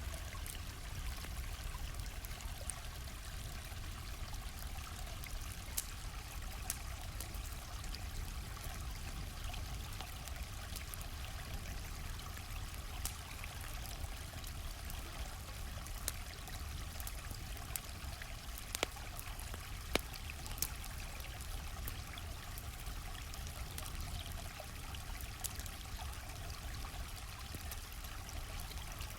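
A stream flowing steadily with a low rumble, with campfire crackle over it: scattered sharp pops and snaps, the loudest about two-thirds of the way through.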